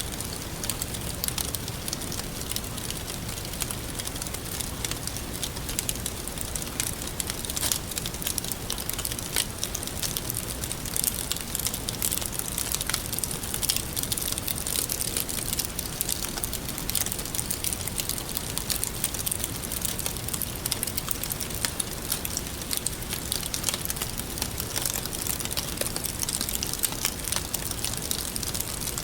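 Wood fire crackling, with a steady stream of small sharp pops over a constant hiss.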